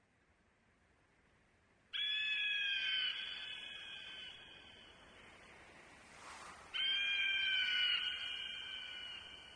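An animal call, sounded twice about five seconds apart: each a steady high-pitched cry held about a second that starts suddenly and trails off slowly, as if echoing.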